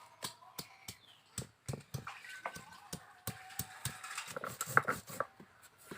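Irregular sharp knocks and taps, a few a second, with faint steady tones behind them.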